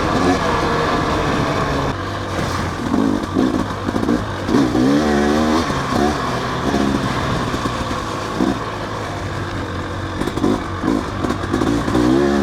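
Dirt bike engine running under load on a trail, rising and falling with repeated throttle blips every few seconds, with some clattering over rough ground.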